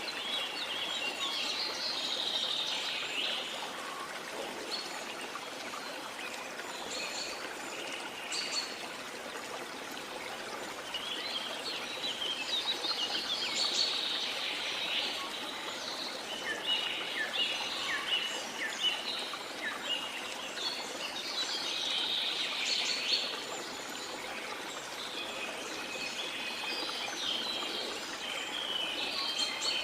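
Steady rushing of a flowing river or stream, with birds chirping and singing over it in several spells of rapid calls.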